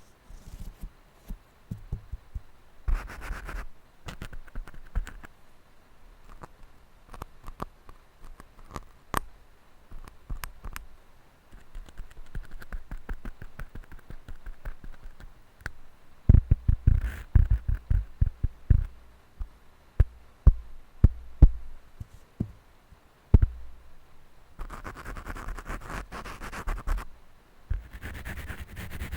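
Microphones being scratched and tapped directly: scattered taps and scratches, with a dense run of rapid, loud taps with heavy low thuds in the middle, and stretches of scratchy rubbing near the start and near the end.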